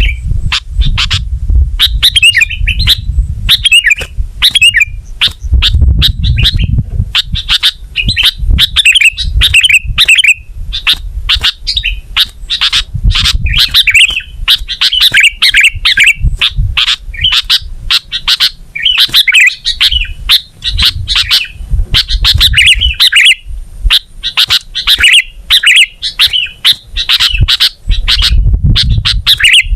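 Sooty-headed bulbul (kutilang) singing continuously: short bubbly, chirping phrases repeated about once a second. A loud low rumble with thuds runs underneath.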